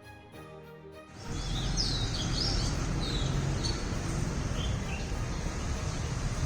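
Soft instrumental music cuts off about a second in, giving way to birds chirping in short bursts over a steady, low background rumble.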